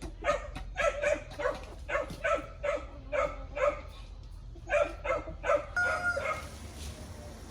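A dog barking in a quick series of short barks, about three a second, pausing and then barking a few more times near the middle.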